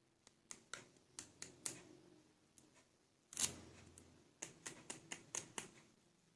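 A run of light, sharp clicks and taps of small hard plastic toy figures being handled and set down, with one louder knock about three and a half seconds in.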